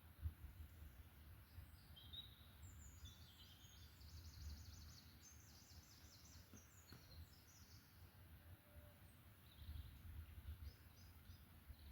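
Faint forest birdsong: songbirds singing high, quick trilled phrases, busiest in the middle, over a low rumble.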